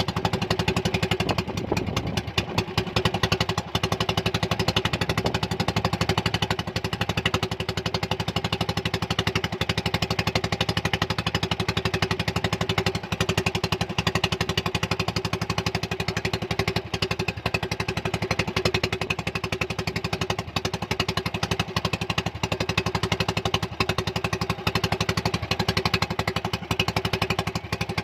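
Motorboat engine running steadily at constant speed, with a fast even pulse and a steady hum.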